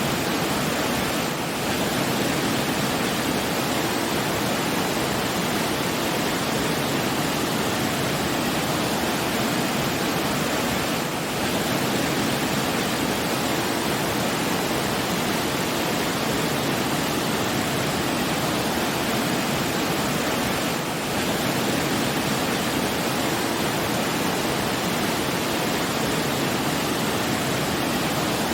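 Steady, dense rushing of water, like a waterfall, with no other sounds; the level dips briefly three times, about ten seconds apart.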